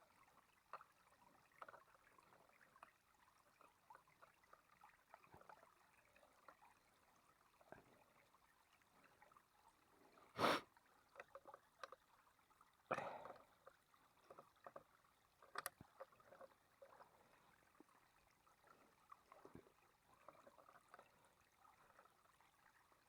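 Near silence broken by faint, scattered small ticks and rustles, with three louder knocks about ten and a half, thirteen and sixteen seconds in.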